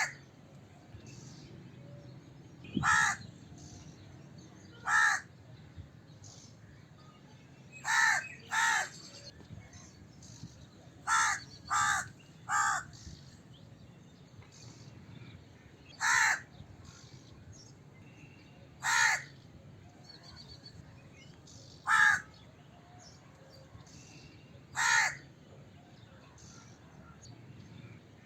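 Crow cawing: about a dozen short, harsh caws spaced a few seconds apart, with a pair about eight seconds in and a quick run of three around twelve seconds.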